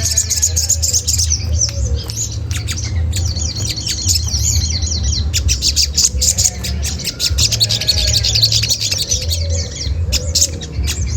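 Olive-backed sunbird calling: a rapid, continuous stream of high, scratchy 'cret cret' chirps, over a steady low hum.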